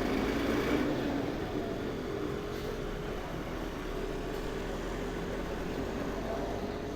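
Steady street traffic, with motor engines running and a constant rush of noise.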